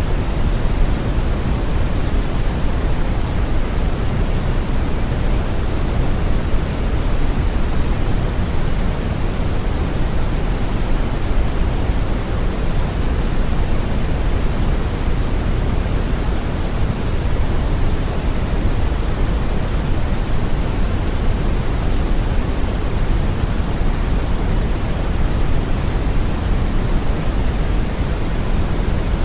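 Steady brown noise: a deep, even rushing hiss weighted toward the low end, unchanging throughout.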